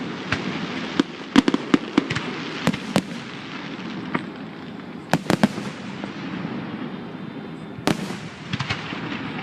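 Fireworks display: sharp bangs in quick clusters, around one to two seconds in, near three seconds, around five seconds, and again near eight and nine seconds, over a steady background rush.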